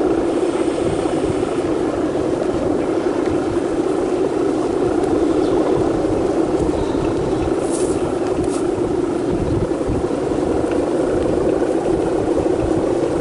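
Steady, wavering drone of a Balinese kite hummer (guangan) vibrating in strong wind, with gusts buffeting the microphone.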